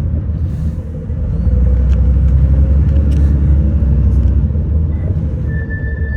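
City bus running, heard from inside the passenger cabin: a steady low engine and road drone that grows louder about a second and a half in. Near the end a high steady tone begins.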